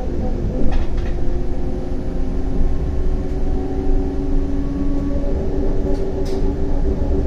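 CAF Urbos 100 tram running along the track: deep rolling rumble from the wheels with the steady whine of the electric traction drive, whose tones shift slowly in pitch. A few short clicks and knocks come about a second in and again near the end.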